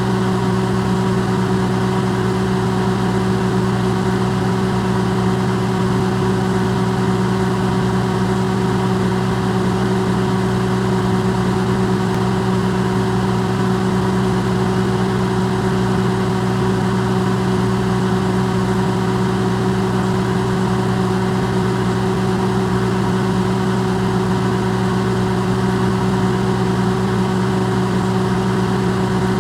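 Electrolux microwave oven running, recorded amplified: a steady, unchanging low hum with a faint hiss over it.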